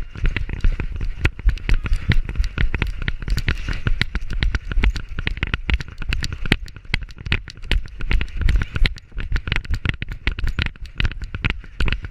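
Rapid, irregular knocking and crackling over a low rumble from a GoPro camera strapped to the back of a running Labrador, jolted with every stride.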